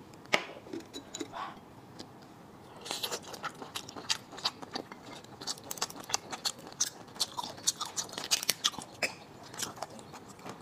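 Close-miked eating sounds of a person chewing soft cooked clam meat: a dense run of wet clicks and smacks that starts about three seconds in.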